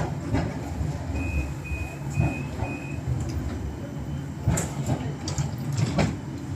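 Four short high electronic beeps in a row, about a second in, fitting a tram's door warning signal, over the low rumble of the tram. Two sharp knocks come later and are the loudest sounds.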